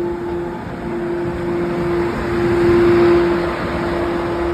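Electric train running through a station: a steady hum with a rumble that swells to its loudest about three seconds in, then eases off.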